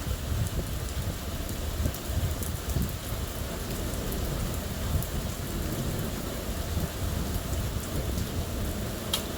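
Steady heavy rain from a thunderstorm, with drops ticking on a surface and a low rumble of thunder underneath. One sharper drop hit stands out near the end.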